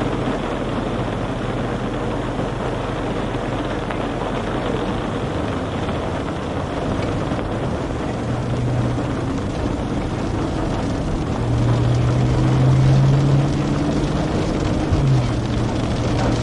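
Steady vehicle engine and road noise with a low drone that swells louder for a few seconds about eleven seconds in.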